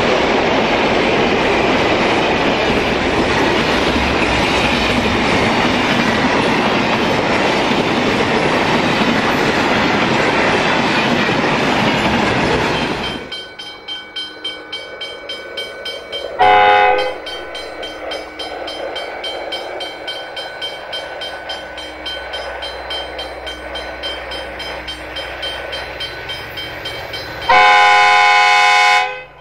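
Long intermodal freight train's container wagons rolling past, loud and steady with clickety-clack. It then cuts to a faint distant rumble, and a V/Line Sprinter diesel railcar's horn sounds twice as it approaches, a short blast and then a longer one near the end, each a chord of several tones.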